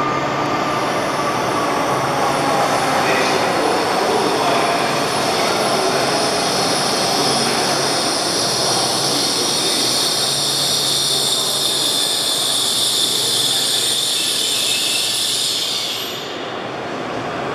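N700S Kamome shinkansen train pulling into the platform and slowing: a steady rushing noise with a high whine on top. The whine cuts off suddenly about sixteen seconds in as the train comes to a stop.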